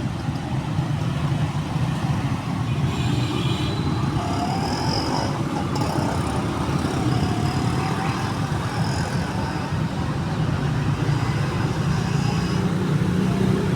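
Steady low rumble of road traffic and engines, with faint high chirps now and then in the middle.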